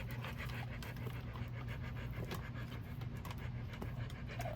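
A dog panting fast and evenly, several breaths a second, over a steady low hum.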